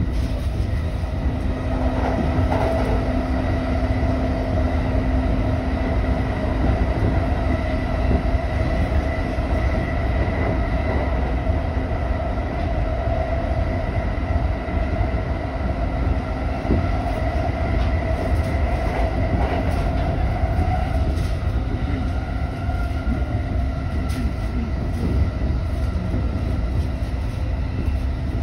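Inside a JR 209-500 series electric commuter train running between stations: a steady low rumble of wheels on rail, with even whining tones from the traction motors over it and an occasional faint click.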